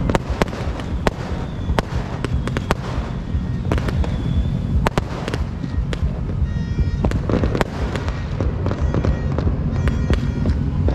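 Fireworks and firecrackers going off all around: a continuous low rumble of bursts with many sharp cracks scattered through it.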